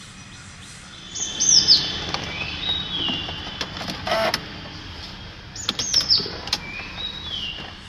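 A songbird singing the same short phrase twice, about four and a half seconds apart: a few quick high downslurred notes followed by a lower slurred whistle. Scattered sharp clicks and knocks sound in between.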